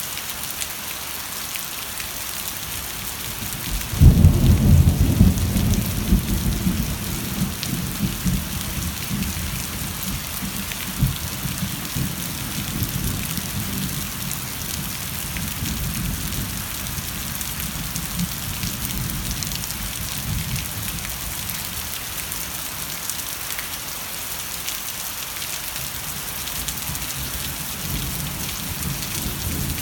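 Steady heavy rain hissing on surfaces, with a thunderclap about four seconds in whose low rumble rolls on and fades over the next several seconds.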